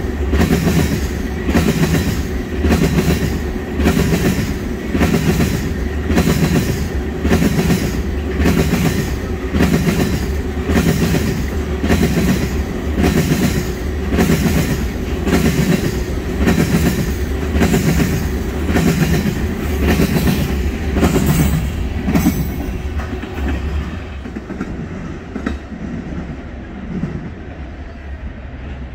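Tank cars of an oil train rolling past, their wheels beating out a steady, regular clickety-clack over the rail joints. About 22 seconds in the rhythm stops as the last car goes by, and the train's sound fades.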